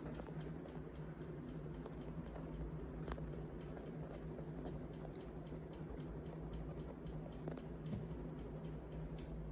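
Minka Aire Flyte ceiling fan running, with a steady low hum and a fast, even series of light ticks, about four a second.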